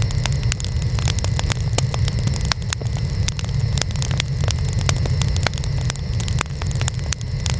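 Wood fire burning: a steady low rumble of flames with sharp crackles and pops from the burning wood, several a second.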